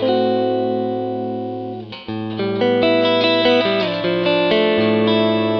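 Electric guitar played through the MXR Rockman X100 on its second clean channel, a mid-heavy, biting tone. A chord rings and fades for about two seconds, then new chords and single notes are picked.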